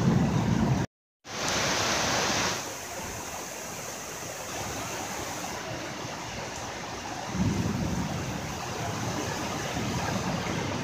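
Heavy rain falling steadily, with floodwater running along the street below. The sound drops out briefly about a second in and comes back as a brighter, louder hiss for about a second and a half; a low rumble swells about seven seconds in.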